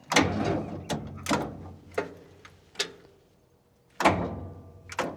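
Starter of an old Komatsu D75-S track loader clunking and cutting in and out in a run of irregular sharp knocks instead of cranking steadily, on a weak jump-start through a bad electrical connection.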